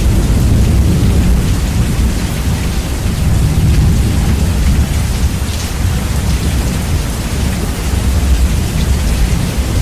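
Rain and thunder, heavily bass-boosted: a loud, deep continuous rumble under a steady hiss of rain, swelling and easing slightly.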